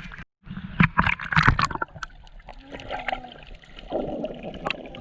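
Water splashing and gurgling close to the microphone, loudest in a burst of splashes about a second in, then a softer churning. The sound cuts out completely for a moment just after the start.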